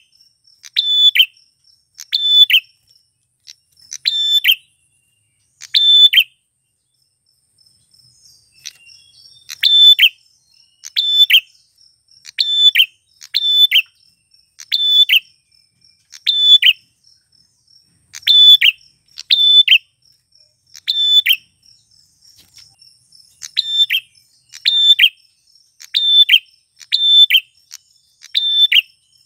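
Male prinia (prenjak klawu) calling: loud, sharp, high notes repeated about once a second, with a pause of a few seconds near the first quarter. A faint steady high trill runs behind the calls.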